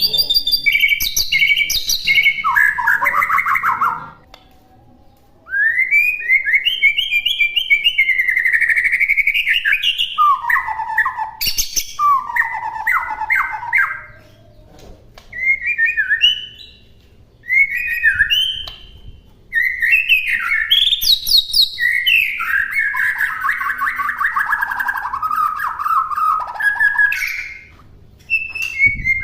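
White-rumped shama (murai batu) singing a long run of varied phrases: rising and falling whistles, rapid chattering trills and sharp notes, broken by several short pauses.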